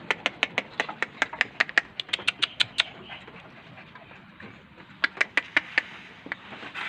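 An animal's rapid clicking calls, about six sharp clicks a second, in two runs: one lasting about three seconds, then a shorter one about five seconds in.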